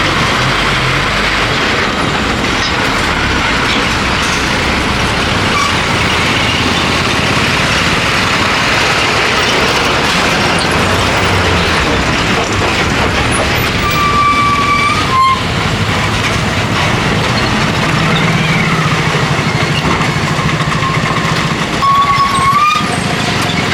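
Heavy traffic of trucks and buses with engines running and tyres on the road, a steady loud rumble. A vehicle horn toots briefly about two-thirds of the way through and again near the end.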